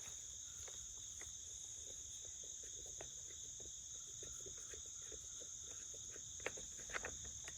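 Steady, high-pitched chorus of crickets trilling without a break, with a scattering of light clicks and taps that come a little more often near the end.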